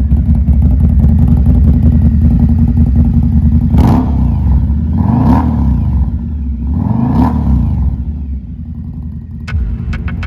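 2023 Indian Scout Bobber Twenty's 1133 cc V-twin running through a Freedom 2-into-1 exhaust. It is blipped three times, the revs rising and falling back each time, then settles to a quieter idle with a sharp click near the end.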